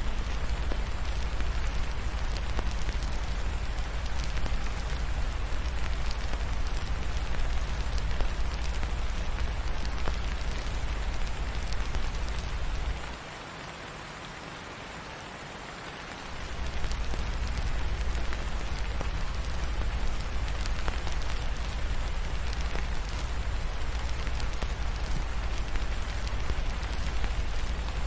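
Steady rain falling, an even hiss over a deep low rumble. About halfway through, the rumble and level drop away for roughly three seconds, then return.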